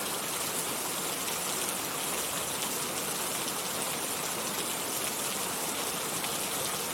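Steady rain falling, a dense even hiss of drops pattering on a surface.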